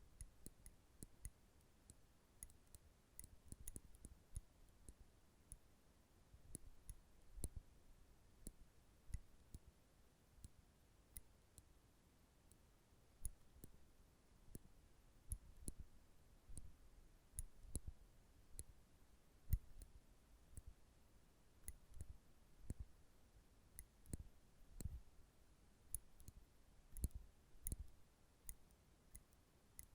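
Nail clippers clicking and being handled close to the microphone: sharp, irregular clicks, about one or two a second, some with a soft low thud.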